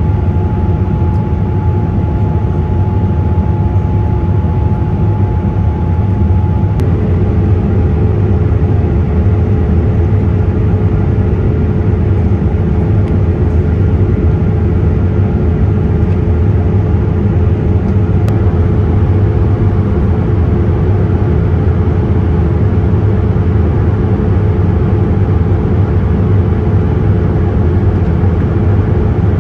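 Steady, loud cabin noise of a Boeing 787-8 airliner, with jet engines and airflow making a low rumble. A steady whine runs over it and drops to a lower pitch about seven seconds in.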